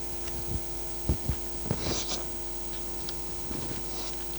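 Steady electrical mains hum on the recording, with a few brief soft knocks and clicks, two of them louder about a second in.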